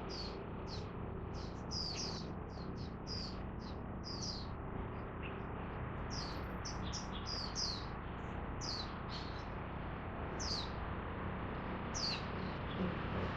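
Birds chirping: a scatter of short, thin, high notes, many sliding downward, coming in quick runs with short gaps, over a steady background hum.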